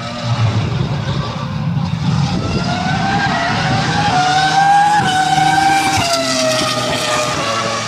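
Jaguar R5 Formula One car's 3.0-litre V10 engine at high revs, a low rumble at first that builds into a high-pitched engine note. The note rises in pitch and loudness to a peak about five seconds in, then drops in pitch about six seconds in.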